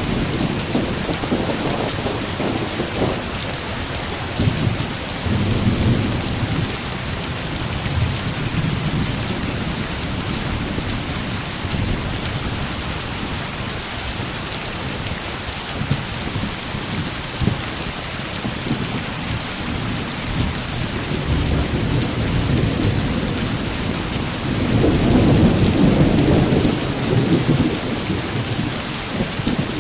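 Heavy rain pouring steadily, with rolls of thunder rumbling underneath; the loudest rumble swells up near the end.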